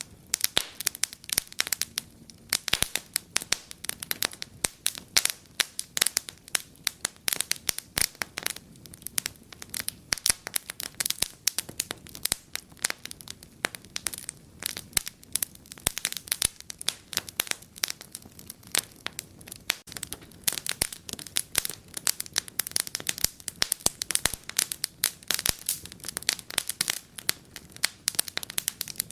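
Wood fire crackling and popping: many sharp irregular snaps from burning logs, a few louder pops among them.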